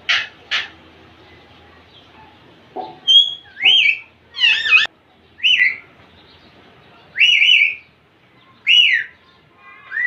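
Indian ringneck parakeets calling: two short harsh screeches at the start, then, after a pause, a string of whistled calls that bend up and down in pitch, one of them a quick warble.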